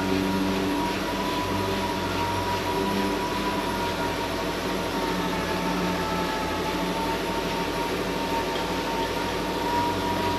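Steady mechanical hum with a thin high whine that wavers slightly in pitch, from a machine running in a body shop.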